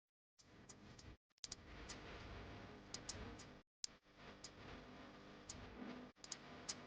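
Near silence: faint background noise with scattered sharp clicks, irregularly spaced, several a second at times.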